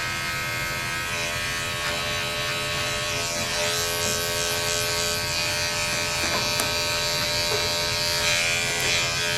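Electric dog grooming clippers running with a steady buzz while trimming the dog's ear hair.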